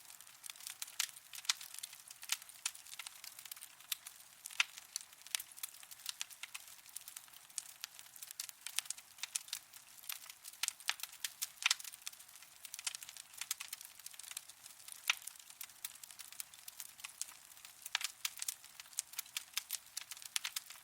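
Wood fire crackling in a fireplace: many small irregular pops and snaps over a soft hiss.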